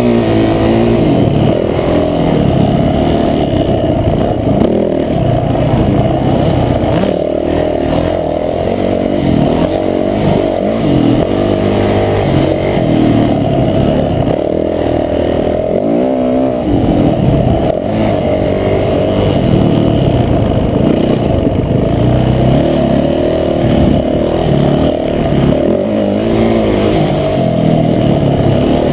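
Motocross bike engine under hard riding, its revs rising and falling again and again through throttle and gear changes, loud and close to the on-board microphone.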